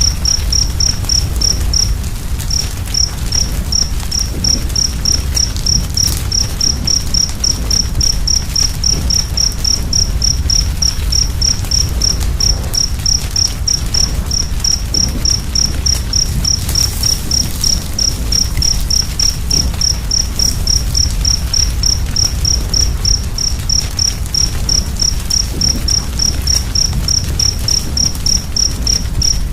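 A cricket chirping steadily, about three short high-pitched chirps a second, with a brief pause about two seconds in, over a low steady rumble and faint crackle from a fire.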